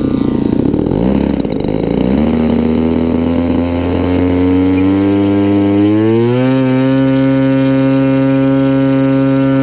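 Single-cylinder gasoline engine of a large RC model airplane throttling up from a low, uneven idle. The pitch climbs slowly, rises sharply about six seconds in, then holds steady at a high full-throttle pitch, as for a takeoff run.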